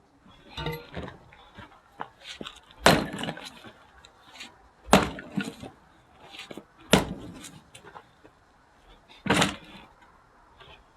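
Axe splitting firewood: four sharp strikes about two seconds apart, with lighter knocks in between.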